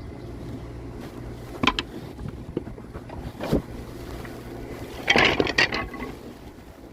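Sawmill machinery running with a steady low hum, with no saw cutting. Single knocks of wood come about two and three and a half seconds in, and a burst of clattering follows about five seconds in.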